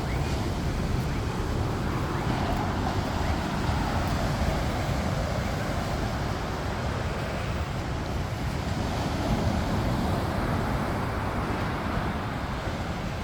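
Steady outdoor rushing noise with a strong low rumble, and no distinct events.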